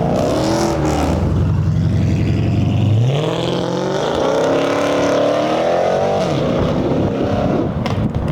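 A car engine revving hard and accelerating away, its pitch climbing sharply about three seconds in.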